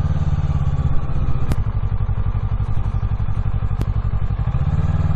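Kawasaki Ninja 650's parallel-twin engine running at low revs as the bike rolls slowly over gravel, getting a little stronger near the end. Two sharp clicks stand out, about a second and a half and nearly four seconds in.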